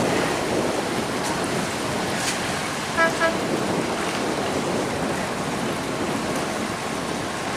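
A boat horn gives two short toots about three seconds in, over a steady rushing noise of water or rain.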